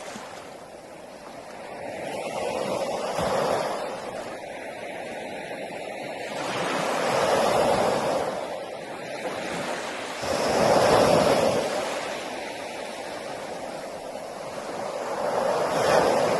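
Ocean waves breaking on a beach, the surf swelling and falling away about every four seconds. The loudest wave comes about two-thirds of the way through.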